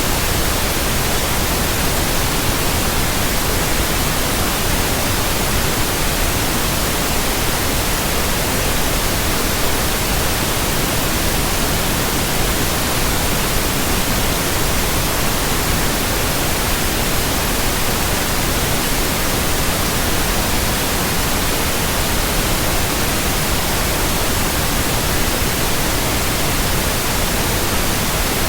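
Steady, unchanging white noise: an even electronic hiss spread across all pitches.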